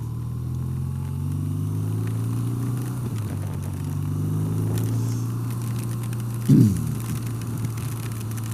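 BMW R12's boxer-twin engine running under way, its note rising and then dropping about three seconds in before holding steady. A short loud burst sweeps down in pitch about six and a half seconds in.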